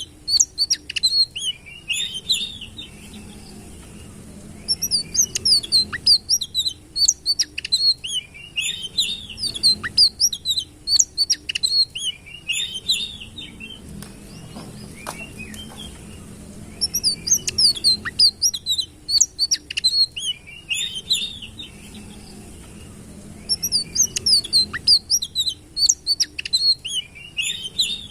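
A sitrun, an Indonesian songbird, singing: a few seconds at a time of fast, high twittering notes, separated by short pauses, over a faint steady low hum.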